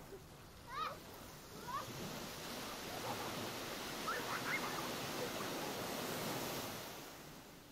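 Short chirping bird calls, rising in pitch, a few at a time, over a rushing noise that swells about two seconds in and fades away near the end.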